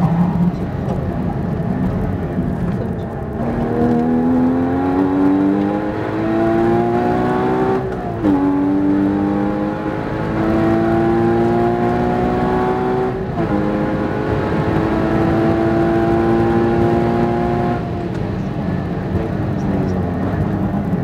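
Porsche 981 Cayman GT4's 3.8-litre flat-six at high revs, heard from inside the cabin with tyre and wind noise. The engine note climbs steadily under full throttle, drops sharply twice and climbs again, then falls away near the end as the car comes off the power.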